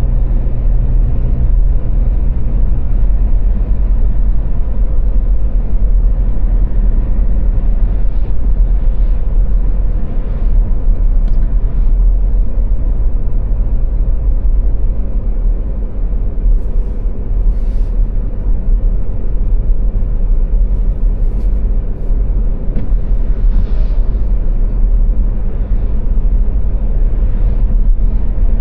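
Car driving at motorway speed: a steady, loud low rumble of engine and road noise, with a faint engine hum that shifts in pitch about three seconds in.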